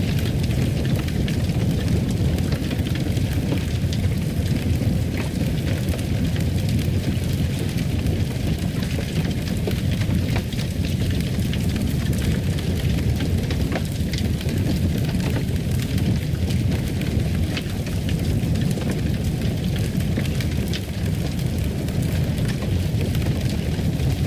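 Fireplace fire crackling: a steady low rumble of burning with frequent small sharp crackles and pops scattered throughout.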